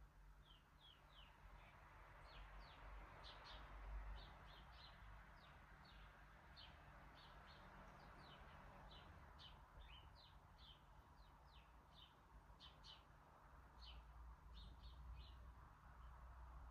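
Faint bird chirping: a steady run of short, high chirps, two or three a second, over a low hum.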